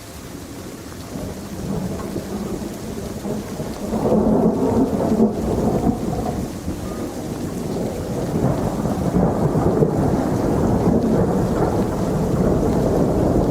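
Thunder rumbling over steady rain; the rumble swells about four seconds in and stays loud.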